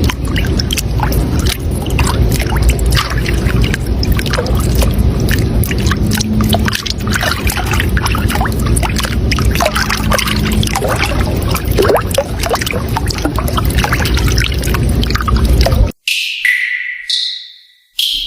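Running water splashing and gurgling, a dense steady rush full of small splashes. It cuts off suddenly near the end, and short high chirps that glide downward follow.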